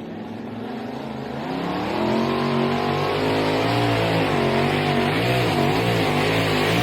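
A pulling truck's engine running under load. It grows louder about two seconds in, then holds loud while its pitch wavers up and down as the revs rise and fall.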